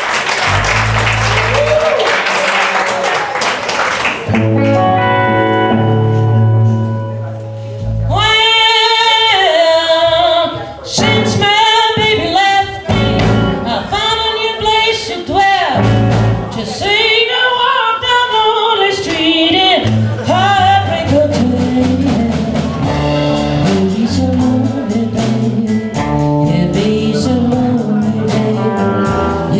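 Live band music: applause for about the first four seconds, then a few held instrumental notes, and from about eight seconds in, singing with vibrato over the band.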